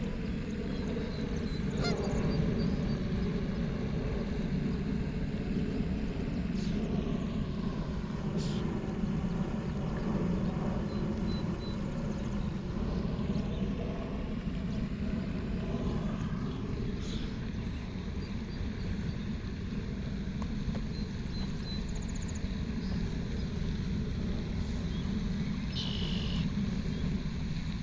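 Steady low outdoor rumble, like distant traffic or wind, with a few faint, brief chirps above it.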